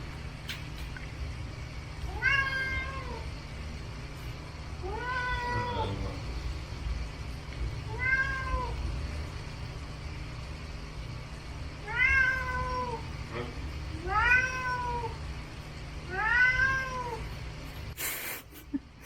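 Domestic cat meowing six times, a few seconds apart. Each meow lasts about a second and rises then falls in pitch. These are complaining, demanding meows for food.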